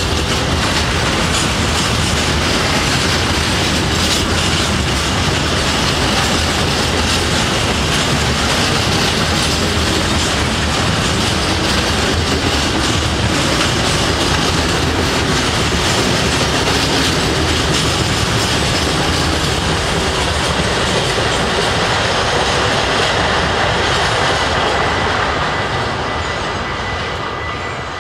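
Freight train of tank wagons rolling through a level crossing: a steady, loud rumble of steel wheels on the rails that fades over the last few seconds as the end of the train goes by.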